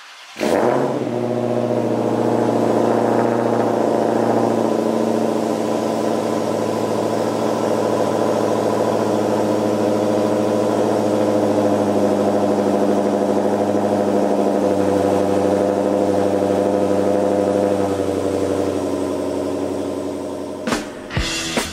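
A Dodge Challenger SRT Hellcat's supercharged 6.2-litre HEMI V8 fires up about half a second in and settles into a loud, steady idle, easing slightly lower later on. Rock music comes in near the end.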